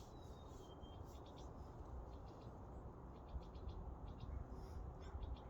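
Faint birdsong: a short whistle falling in pitch near the start, then clusters of quick high chirps, over a low steady rumble.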